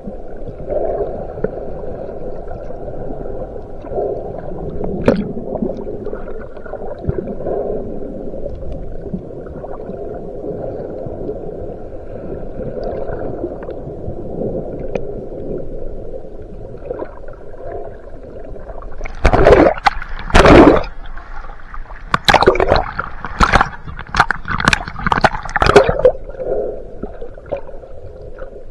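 Water sloshing and gurgling around an underwater camera in wave surge. Loud bursts of bubbling come about two-thirds of the way in.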